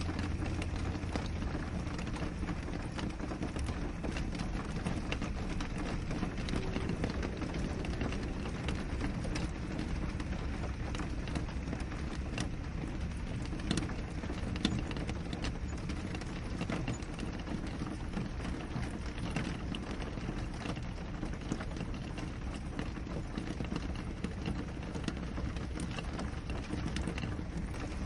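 Steady rain falling on window glass: an even hiss with many individual drops tapping against the pane.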